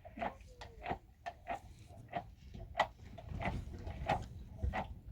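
Irregular light knocks and clicks, two or three a second, some with a short ring, over a low rumble that swells in the middle.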